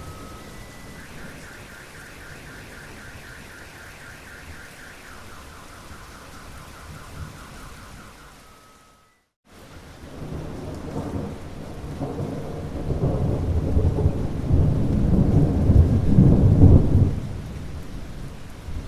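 Steady rain, with a rapidly pulsing high tone over it that steps down in pitch partway through. After a brief dropout, a long roll of thunder builds, peaks and fades back into the rain.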